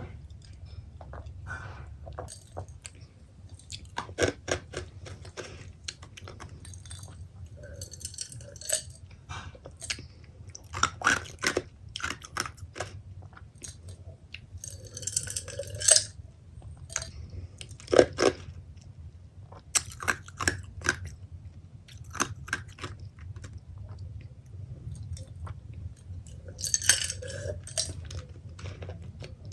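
Close-miked chewing of pepperoni pizza, with irregular wet smacks and a few louder crunches of crust.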